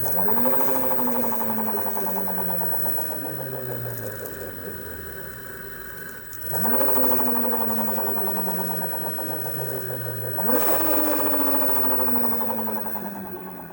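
Zero DSR electric motorcycle motor and belt drive spun up three times, each time whining quickly up in pitch and then falling slowly as it coasts down. A fast rhythmic hammering runs through it, which the owner fears may point to a developing motor bearing problem.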